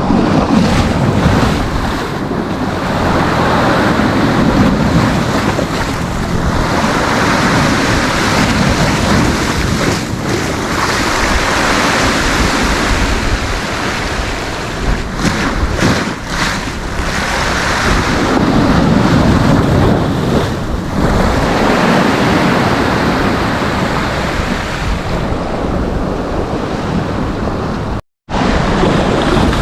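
Sea waves breaking and washing up the beach in repeated surges, with wind buffeting the microphone. The sound cuts out for an instant near the end.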